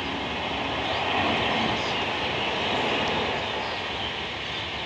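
Passenger train's coaches rolling over a railway bridge: a steady rumble and hiss of steel wheels on the rails, loudest about a second in and easing off toward the end as the last coaches pass.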